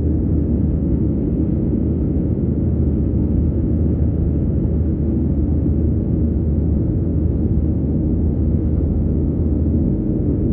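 Steady low rumble of a Boeing 737-700's engines and airflow heard from inside the passenger cabin.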